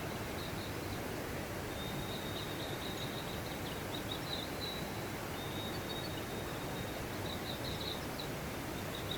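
Steady rushing of a mountain stream, with high-pitched chirping calls repeating over it in short runs.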